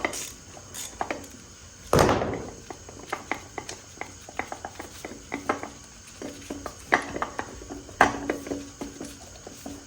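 Hand tools and metal engine parts clinking and tapping at irregular intervals while an AC compressor is unbolted from a Honda K20 engine. There is a loud metallic clunk with a short ring about two seconds in, and sharper knocks near the end.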